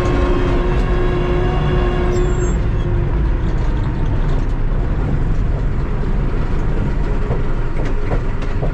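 TEREX TLB-815 backhoe loader's diesel engine running steadily, with a whine that fades out about three seconds in and a few light knocks near the end.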